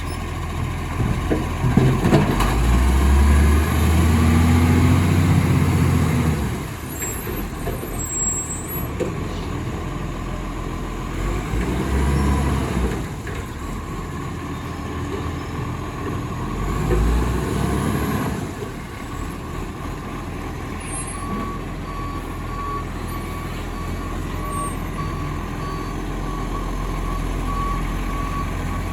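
Garbage truck engine running, surging louder three times as it is revved. About two-thirds of the way through, its reversing alarm starts a steady beeping.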